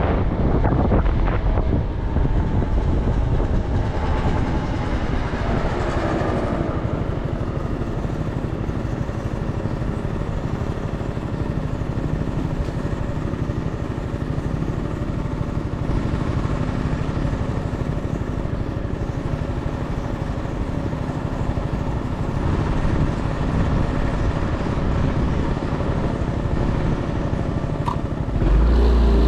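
Motorcycle engine running on the road, with wind rushing over the microphone. The engine pitch shifts a few seconds in, and the wind grows louder again near the end.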